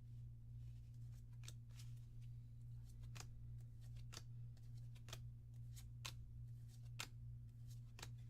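Force of Will trading cards being flicked through by hand, one soft snap or swish about once a second, over a steady low electrical hum.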